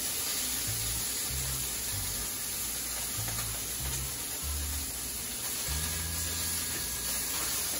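Tilefish frying in a pan, a steady sizzle, under background music with a bass line.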